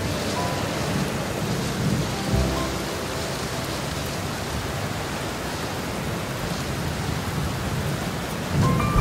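Heavy rain pouring steadily, with low rolls of thunder rumbling about two seconds in and again near the end.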